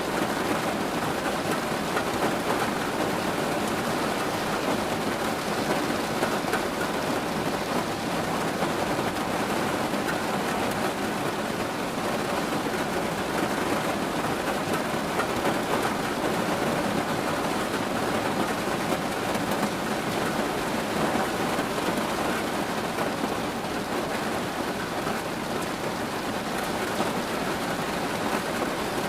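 Steady rain, a dense and even patter of drops that keeps on without pause or change.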